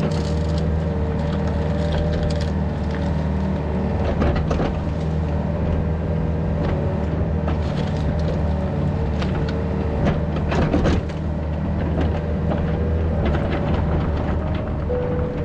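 Yanmar VIO50 mini excavator's diesel engine running steadily with a higher whine that shifts in pitch now and then, while wood and brush crack and knock at intervals as the machine breaks them.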